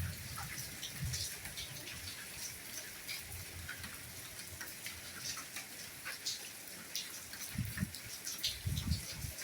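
Soft steady rainfall, with scattered individual drops ticking close by and occasional soft low thuds of heavier drops.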